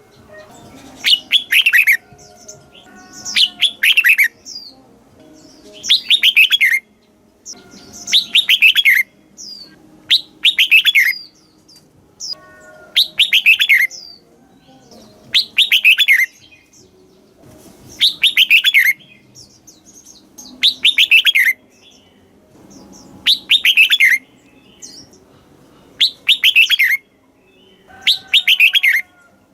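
Red-whiskered bulbul singing, repeating a short phrase about every two to two and a half seconds. Each phrase is a quick run of bright notes that falls in pitch.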